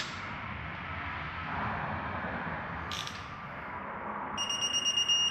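Digital torque wrench tightening an exhaust manifold bolt on a Ford 3.5 EcoBoost engine: a sharp click about three seconds in, then a high beep pulsing fast near the end as the bolt reaches the 18 ft-lb setting.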